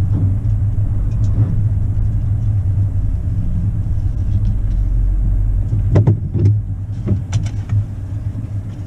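Truck driving, a steady low engine and road rumble heard from inside the cab. A few sharp knocks come a little past the middle, and the rumble eases off toward the end as the truck slows.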